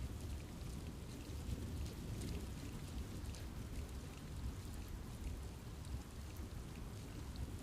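Steady rain falling in a forest, with a low, even rumble and many small scattered drips and patters on leaves.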